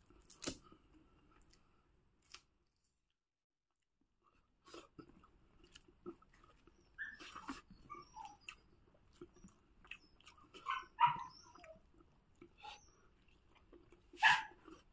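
Close-up chewing and mouth smacking of a man eating rice and boiled pork by hand, with scattered short clicks and a few louder sharp sounds. The sound cuts out completely for about two seconds near the start.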